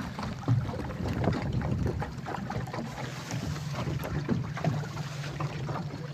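A steady low engine-like drone with wind noise on the microphone and scattered small clicks.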